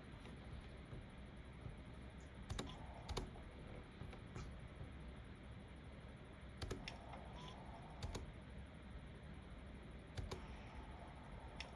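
Occasional keystrokes on a computer keyboard: about seven separate clicks spaced a second or more apart, over a faint steady hiss.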